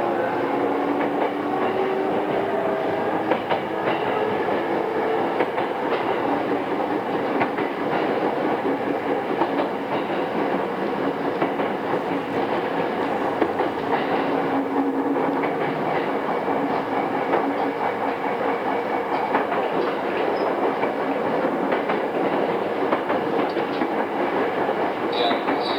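Running sound inside the motor car of a pre-renewal JR East E217 series electric train, with original GTO-thyristor VVVF inverter traction motors. The motor whine climbs in pitch over the first few seconds as the train accelerates, then settles into steady wheel-on-rail noise with a regular clickety-clack over the rail joints.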